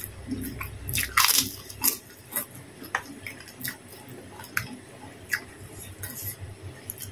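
Chewing and biting crisp kerupuk crackers: a run of short, sharp crunches, the loudest about a second in.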